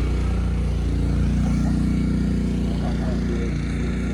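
Gas-engine pressure washer running steadily at a constant speed.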